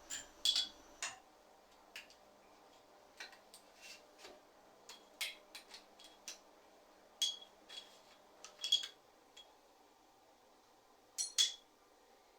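Metal tools and bicycle parts clinking and clicking against each other during hands-on workshop work, in irregular sharp taps, several with a brief metallic ring. The loudest come about half a second in, near nine seconds and near the end.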